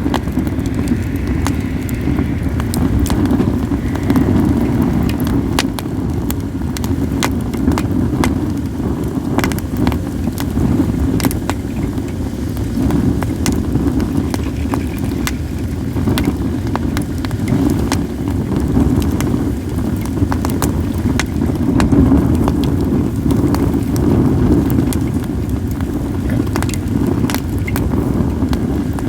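Wood fire of acacia and mixed firewood crackling, with many scattered sharp snaps and pops, over a steady low rumble of wind on the microphone.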